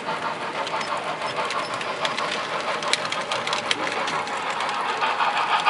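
Model railroad locomotive running on the layout while switching cars: a steady motor and wheel-on-rail noise with many small clicks.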